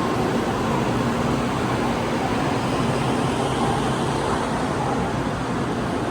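Steady din of a crowded railway station hall: a dense mix of indistinct voices, footsteps and ventilation hum, with no single sound standing out.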